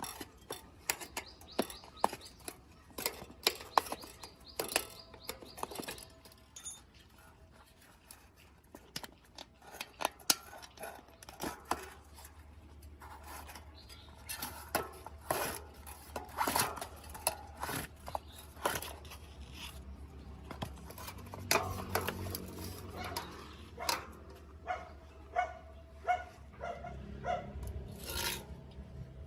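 Irregular clicks, taps and metallic clinks of hand tools and small bicycle parts being handled and worked on, with a few short ringing clinks near the end.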